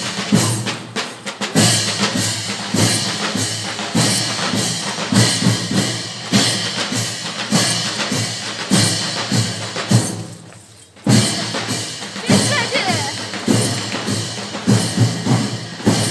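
Mehter band playing: big drums beating a steady march rhythm with ringing crashes, dropping away for about a second near the ten-second mark before coming back in.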